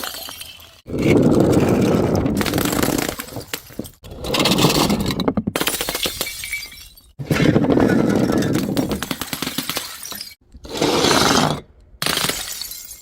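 Glass bottles smashing and shattering, about five separate breaks one after another with abrupt cuts between them; each starts suddenly and crackles off over a couple of seconds as shards scatter.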